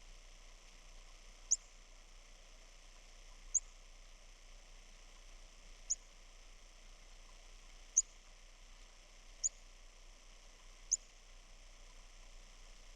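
A small bird chirping: six short, high, thin chirps, each a quick downward flick, spaced a second and a half to two seconds apart. Under them runs a steady soft hiss of snowstorm wind.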